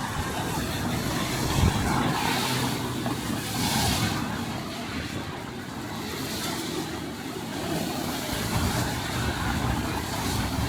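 City street traffic in the rain: cars going by with the hiss of tyres on a wet road, swelling to its loudest about four seconds in, over a low rumble.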